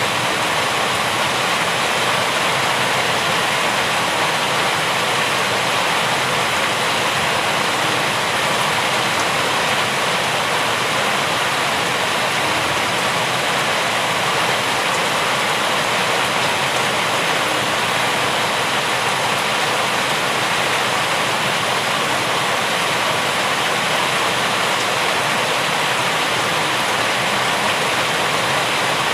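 Steady rain falling, an even, unbroken hiss with no single drops standing out.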